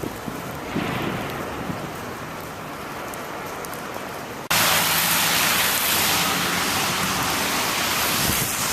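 Steady hiss of blizzard wind and snow outdoors. About halfway through, it jumps abruptly to a much louder, brighter hiss that holds steady.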